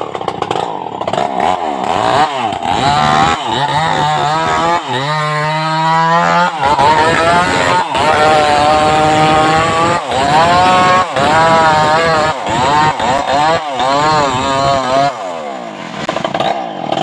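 Stihl MS 381 two-stroke chainsaw coming in abruptly and revving up and down again and again, its pitch rising and falling with each blip of the throttle. Around five to six and a half seconds in it holds a lower, steady pitch, and near the end it drops back quieter and lower.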